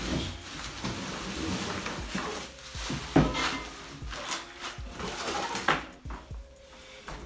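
New aftermarket exhaust parts and their packaging being handled: clattering metal and rustling, with a sharper knock about three seconds in and another a little before six seconds.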